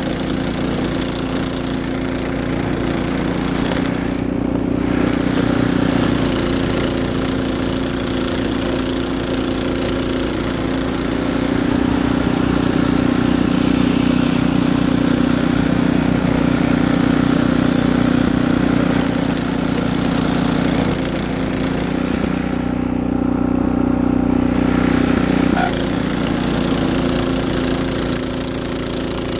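Snowblower engine running steadily at working speed, with a constant high hiss over the engine note that thins out briefly twice.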